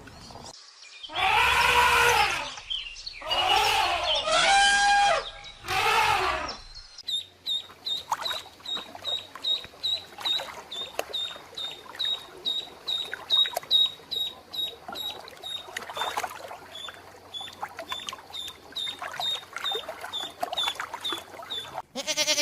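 Three loud, drawn-out animal calls, then a long run of short high chirps, about two a second.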